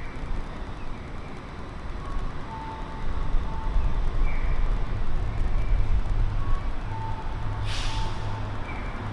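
Street traffic: a heavy vehicle's engine running low and growing louder from about three seconds in, with a brief hiss near the end, likely an air brake releasing. Faint short high beeps or chirps repeat in the background.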